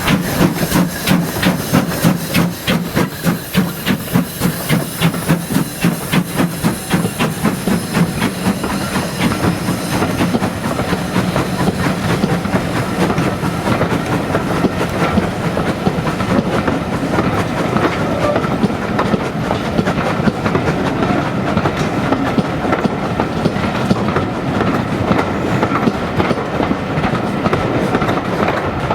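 A train running past on the rails, with a quick, even beat for the first several seconds. The beat fades into a steady rumble and rattle of coaches rolling by.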